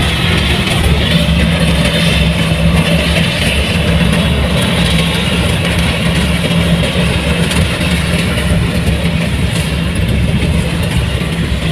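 Heavy farm machinery's diesel engine running steadily at a constant speed, with a low hum.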